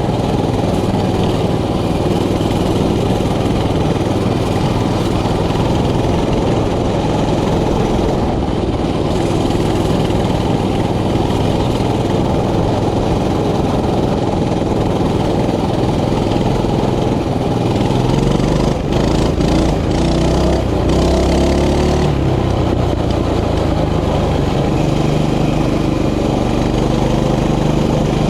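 Mini bike's small engine running continuously while it is ridden, its engine speed rising and falling between about 18 and 22 seconds in, with a few short knocks.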